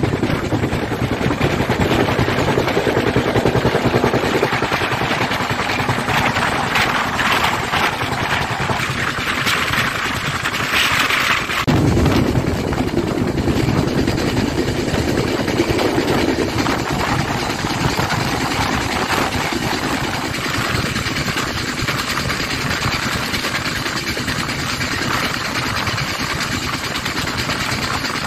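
Indian Railways passenger train running along the track, its wheels rumbling and clattering steadily on the rails. Heard from the open doorway of the coach, with rushing air mixed in. About twelve seconds in, the sound shifts abruptly to a deeper rumble.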